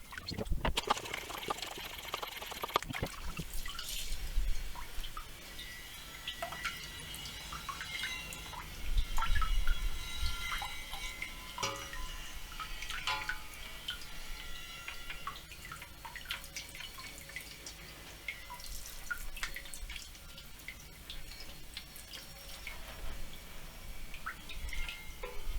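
Liquid dripping and splashing in a nitric acid desmut bath as an aluminium part is dipped to strip the black smut left by the caustic soda etch: many small droplet plinks, with a louder low bump about nine seconds in.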